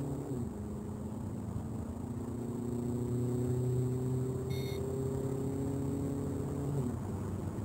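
Skoda Octavia's 1.6 TDI four-cylinder turbodiesel accelerating hard, its pitch climbing steadily. The pitch falls suddenly just after the start and again near the end, as the seven-speed DSG dual-clutch gearbox shifts up.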